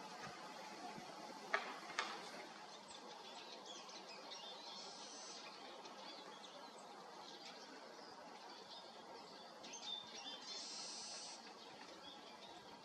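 Small birds chirping with short, high calls, scattered at first and then a denser burst near the end. Two sharp clicks come about one and a half and two seconds in.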